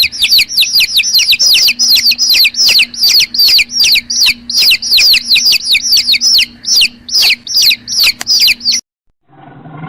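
A bird calling in a fast, regular series of high chirps, each falling in pitch, about three or four a second. The chirps stop suddenly near the end, and a lower, rougher animal sound begins.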